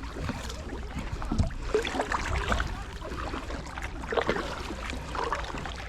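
Kayaks moving in shallow water: paddles splashing and knocking in irregular strokes over a steady low rumble.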